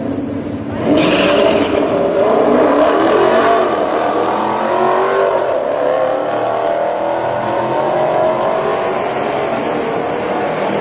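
V8 drag-racing cars launching hard about a second in and accelerating at full throttle. The engine pitch rises and falls as they pull down the strip.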